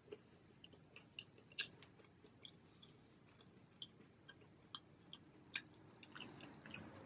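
A person chewing a mouthful of crispy thin-crust pepperoni pizza, faint, with small crunchy clicks a few times a second.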